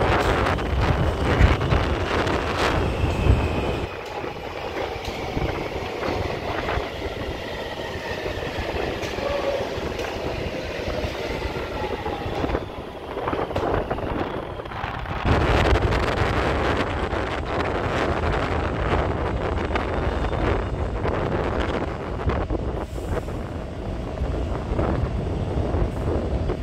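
Taipei Metro electric train running on the track, its wheels clattering over rail joints. A whine from the traction equipment falls slowly in pitch over the first several seconds. The sound dips briefly about halfway through, then grows louder again.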